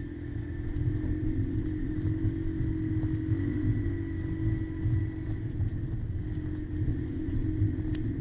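Kymco Maxxer 300 quad's engine running at a steady speed with a low rumble, with a single click near the end.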